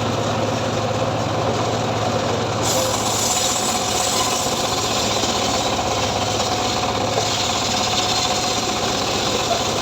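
A saw's engine running steadily, with a hissier layer joining about three seconds in.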